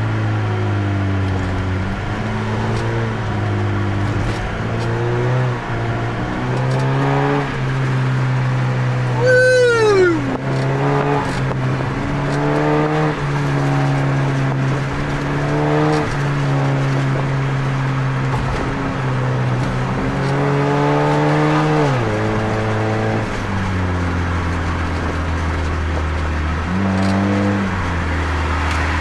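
Car engine heard from inside a moving car, its pitch climbing under acceleration and dropping back several times as it shifts gears, with steady cruising stretches in between. About nine seconds in, a brief sharp whine rises and falls.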